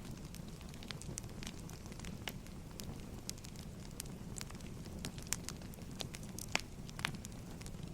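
Wood fire crackling: a steady low rumble with frequent irregular sharp pops and snaps, a few of them louder.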